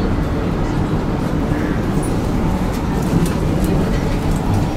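Hakone Tozan Railway electric train rolling slowly into a station, heard from the cab: a steady low rumble of the running gear and wheels on the rails, with a few light clicks.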